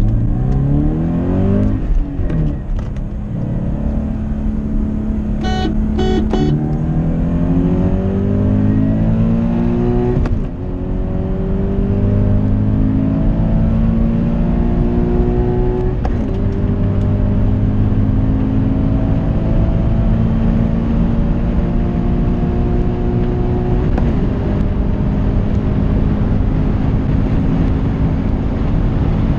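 Toyota GT86's 2.0-litre flat-four engine at full throttle from a standing start, heard from inside the cabin: the engine note climbs steadily through each gear and drops sharply at each of four upshifts. A short run of high beeps sounds about six seconds in.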